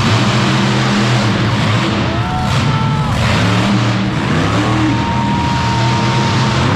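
Monster truck engine running loud and steady, with a few faint higher tones over it about two seconds in and again near the end.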